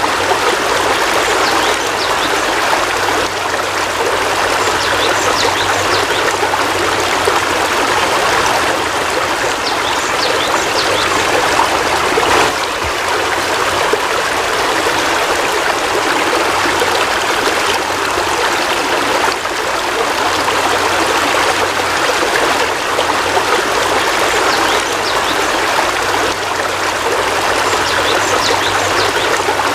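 Heavy rain falling steadily: a dense, even hiss of water that holds without a break.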